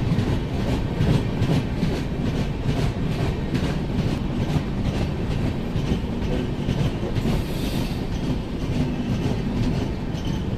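Train running at speed: a steady wheel-and-rail rumble with a continual clickety-clack of wheels over rail joints, as a goods train's tank wagons pass close alongside on the next track.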